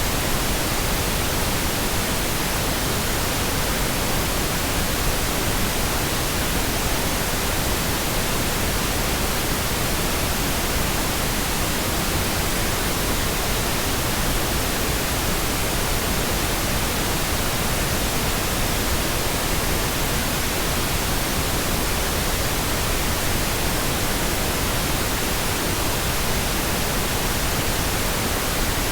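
Steady, unchanging pink noise: an even hiss across the whole range, fuller in the lows than white noise.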